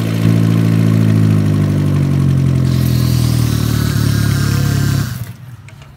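Freshly rebuilt Kia Morning petrol engine idling steadily just after starting, its crankshaft spinning and splashing oil. It shuts off about five seconds in.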